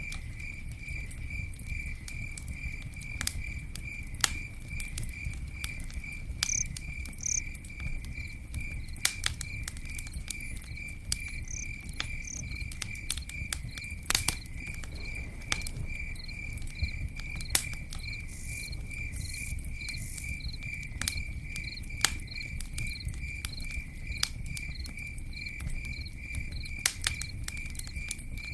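Campfire crackling with scattered sharp pops over a steady low rumble, while an insect chirps steadily in the background, about two to three chirps a second.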